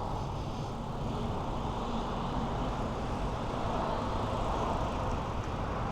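Steady road traffic noise with a low engine hum, heard from a moving bicycle.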